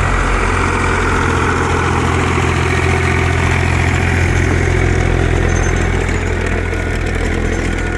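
Zetor tractor's diesel engine running at a steady speed.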